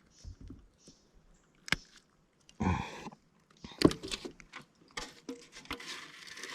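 Handling noises in a kayak while a caught fish is being measured: scattered clicks and knocks, then a stretch of rustling near the end.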